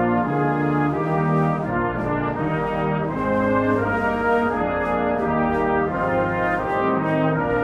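Music led by brass instruments, playing held chords that change about every second.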